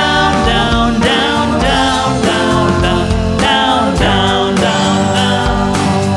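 A band playing a bass-and-drum groove, with a pitched lead line wavering over it.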